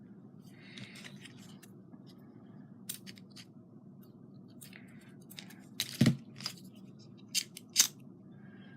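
Scattered small clicks and snips of hands working ribbon and craft materials on a table, with a few sharper clicks about six and eight seconds in.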